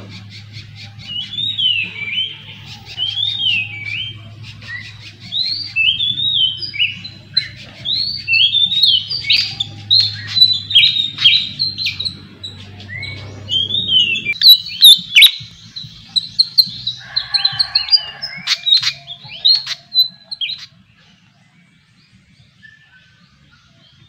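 Small bird chirping: a long run of short whistled notes sliding up and down, mixed with sharp clicky calls, stopping about twenty seconds in.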